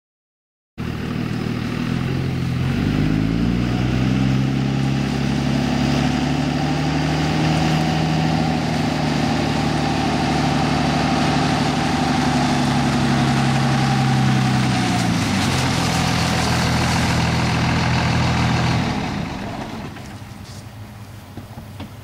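A motor vehicle's engine running. It starts suddenly, climbs in pitch a couple of seconds later and holds steady, then drops back to a lower speed about fifteen seconds in. It stops about nineteen seconds in.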